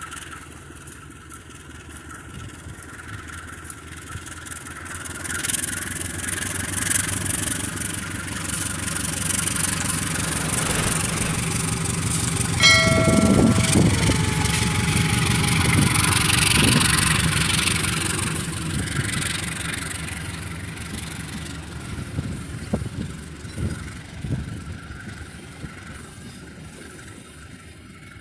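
A train passing close by. The rumble and clatter of the locomotive and wheels build over several seconds, peak about halfway, then fade away. A short toot sounds at the loudest point.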